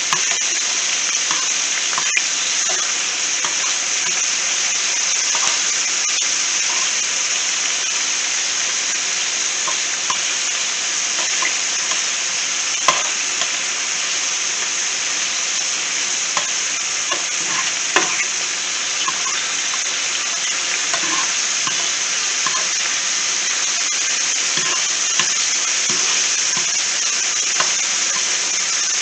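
Chicken pieces sizzling steadily in hot coconut oil in a skillet, with a few sharp clicks of metal tongs against the pan as the pieces are turned.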